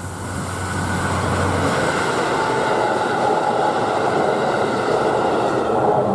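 KiYa 97 series diesel rail-transport railcar train running by on the line, a loud steady rumble of wheels and running gear that builds over the first two seconds and then holds.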